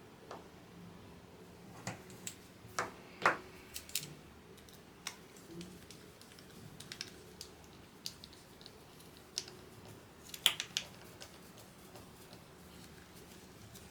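Irregular light clicks and taps of small parts and hand tools being handled during keyboard assembly, with a few sharper clicks about three seconds in and again about ten seconds in.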